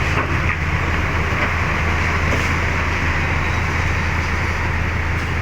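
Large truck's engine running with a steady low drone over road and traffic noise.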